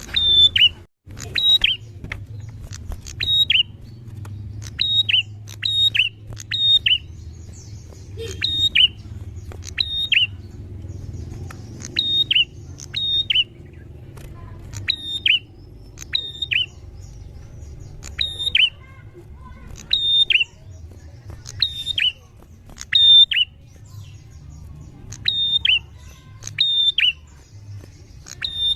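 Prinia (prenjak) calling: sharp, quick chirps that drop in pitch, in rapid groups of two or three, repeated over and over. A steady low hum runs underneath.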